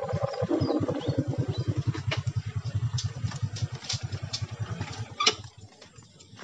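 Small motorcycle engine idling with an even putter, which stops about five seconds in.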